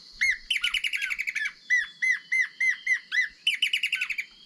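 Recorded duet of the blackish antbird played loudly through a phone speaker. It opens with a fast run of notes, continues with a string of arched whistled notes about four a second, and ends with another fast run about three and a half seconds in.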